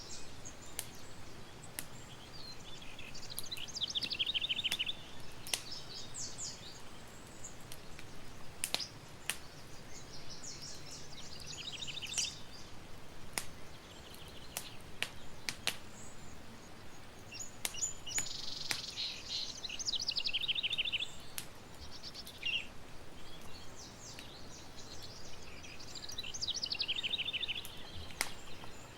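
A songbird repeating a short song about every seven or eight seconds: a few high notes running into a fast trill that drops in pitch. Between and under the songs, a campfire crackles with scattered sharp pops over a soft steady hiss.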